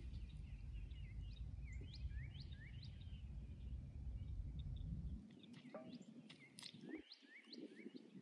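Birds calling faintly: short chirps that sweep upward, repeated in two runs, over a low rumble that cuts off about five seconds in.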